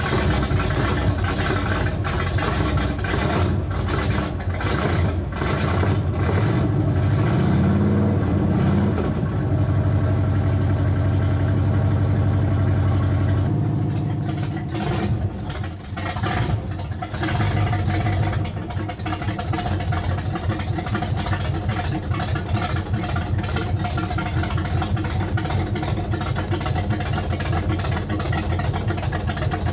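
The V8 of a 1966 Pontiac LeMans GTO clone, built with a Holley double-pumper carburettor, steel headers and a lumpy camshaft, running just after start-up. It revs up a little in the first half, then drops about halfway through and settles into a steady idle.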